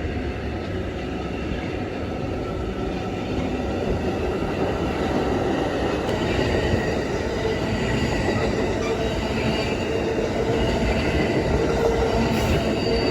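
A train rolling past with a steady rumble of wheels on rail that slowly builds, with faint thin squealing tones running through it.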